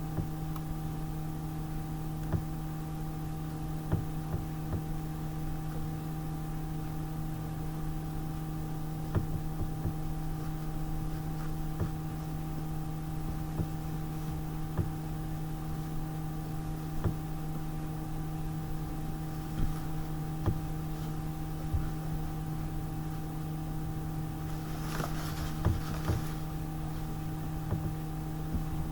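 A steady machine hum, one low tone with several higher tones above it, held at a constant pitch, with scattered light clicks and knocks. A brief hiss comes about 25 seconds in.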